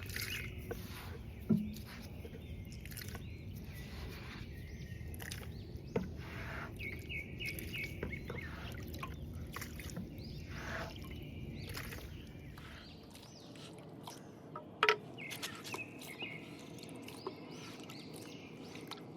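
Small birds chirping on and off over a steady low outdoor background noise, with a few sharp knocks, the loudest about a second and a half in and another near fifteen seconds.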